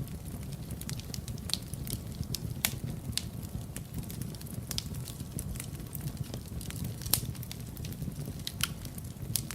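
Wood fire in a fireplace crackling: irregular sharp pops and snaps over a steady low rumble of the flames, with two louder pops at about a third and three-quarters of the way through.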